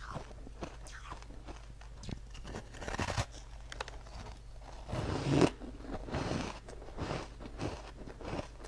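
A person biting into ice and crunching it: a run of crisp crunches, with louder bites about three seconds in and again a little after five seconds.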